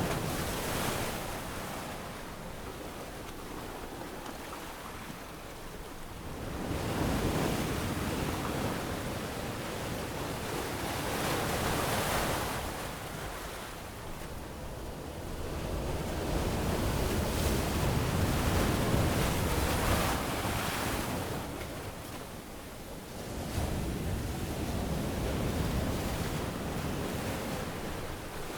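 Waves washing onto a sandy beach, the surf swelling and falling back in surges about every five or six seconds.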